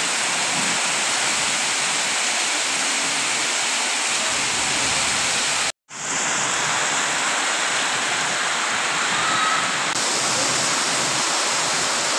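Heavy, stormy rain pouring down in a steady, dense hiss. The sound cuts out for an instant about six seconds in.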